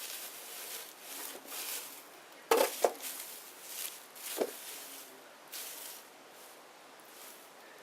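Small wood fire burning: a soft hiss that swells and fades, broken by sharp pops and cracks from the burning wood, two close together about two and a half seconds in and another about a second and a half later.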